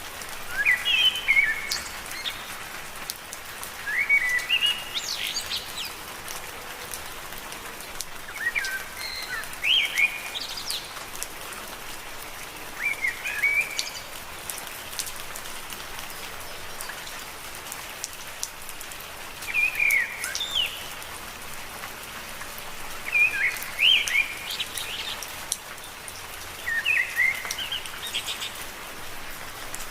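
Steady rain falling on leaves, with a bird repeating a short chirping phrase every few seconds.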